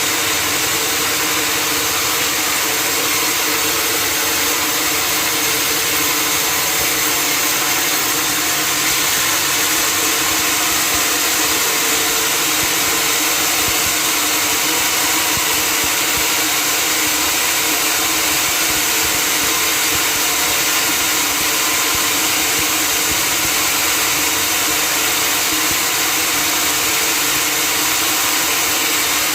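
Sawmill machinery running steadily: a constant machine drone under a strong, even hiss, without a break.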